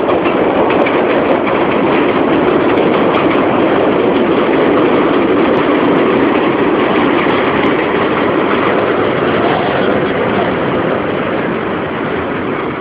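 A passing train: a loud, steady rush of noise with no clear pitch, easing off slightly near the end.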